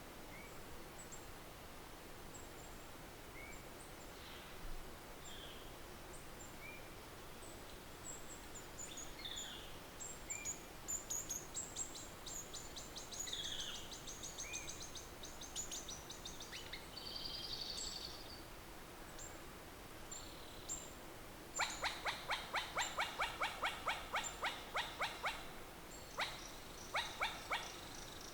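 Outdoor ambience with scattered short animal chirps. About two-thirds in, an animal starts a fast run of sharp, repeated calls, about six a second, that pauses briefly and starts again near the end.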